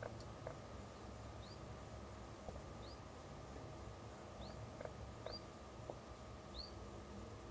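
A bird calling: about five short, high, upward-sweeping chirps, spaced a second or so apart, over a faint low steady rumble.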